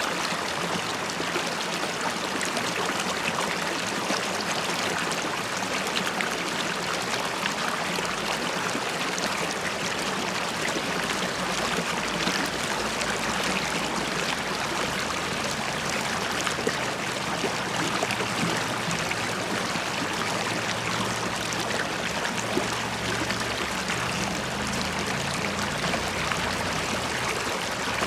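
River water flowing and bubbling over stones, a steady rushing babble with small splashes and gurgles throughout.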